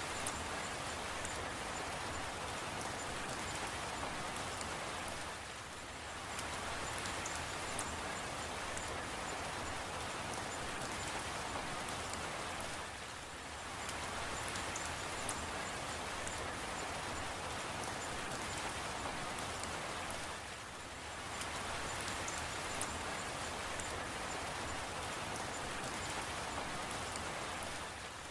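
Steady rain falling on a surface, an even hiss with scattered fine drop ticks. It eases briefly about every seven and a half seconds, then comes back.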